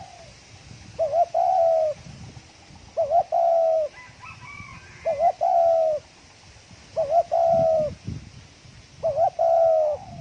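Spotted dove cooing, repeating the same phrase five times, about once every two seconds: each phrase is a short note and then a longer, slightly falling one. A few faint chirps from another bird come in near the middle.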